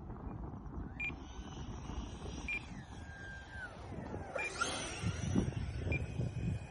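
Electric ducted-fan whine of an E-flite Viper 90 RC jet, gliding down and then up in pitch as it passes and changes throttle, loudest about five seconds in, over steady low wind noise on the microphone. A few very short high beeps sound through it.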